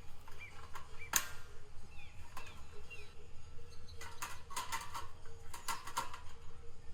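Sharp knocks and clicks: a single one about a second in, then quick clusters around four and six seconds in. Short chirps of a small bird fall between them.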